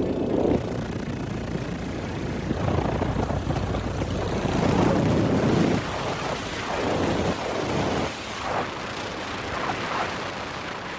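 Strong wind rushing and gusting, the noise swelling and falling in surges.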